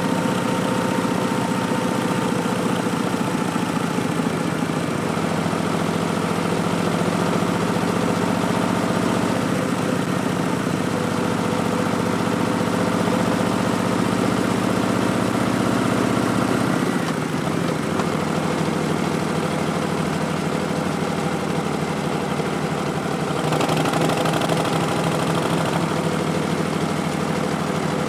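Harley-Davidson Street Bob's Milwaukee-Eight V-twin running through Vance & Hines Twin Slash slip-on mufflers with an Arlen Ness Big Sucker intake, at a steady engine speed. A little over halfway through the note drops in pitch, and later it turns deeper and slightly louder.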